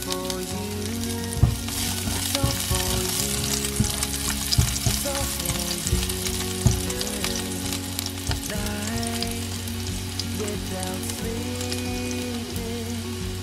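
Beef sizzling steadily in a hot pan as it is stir-fried, with frequent short clicks and scrapes of the utensil against the pan.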